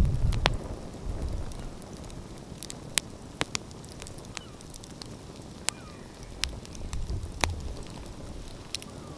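Wood fire crackling, with irregular sharp pops and snaps over a low background rumble that is louder in the first second.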